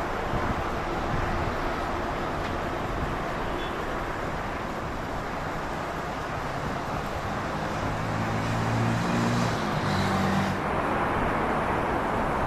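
Steady outdoor rumble of engines and traffic, with a low droning engine hum that swells about eight seconds in and drops away near eleven seconds.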